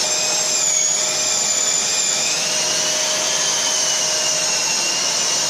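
Sturm DWS 6016 drywall sander running together with a Bosch GAS 35 L SFC+ dust extractor: a steady, loud motor and suction noise with a high whine, one tone dipping slightly in pitch about two seconds in and then recovering.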